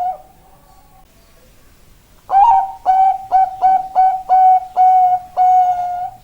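Zebra dove (Bangkok-type perkutut) singing: after about two seconds of quiet, a phrase of about eight clear coos of steady pitch in quick succession, the last held longer.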